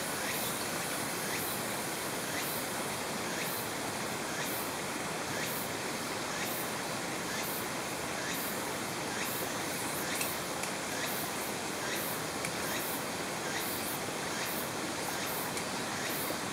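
Mountain stream water flowing over rocks: a steady, even rushing, with faint high ticks about once a second.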